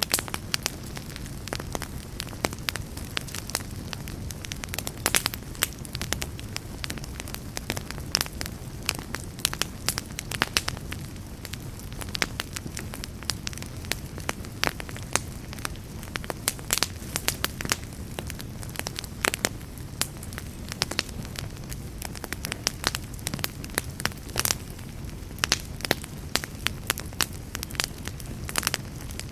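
Wood fire burning in a fireplace: many irregular sharp crackles and pops over a steady low rumble of flames.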